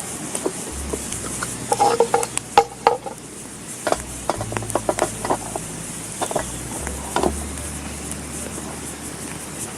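Wood campfire crackling: sharp pops and snaps over a steady hiss, with a cluster of louder pops about two to three seconds in.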